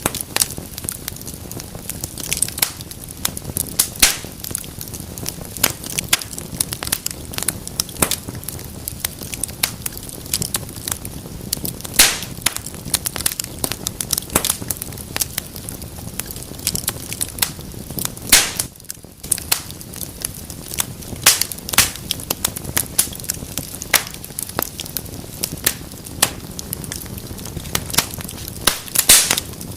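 Fire crackling in a fireplace: frequent sharp pops and snaps of varying loudness over a steady low hiss of burning.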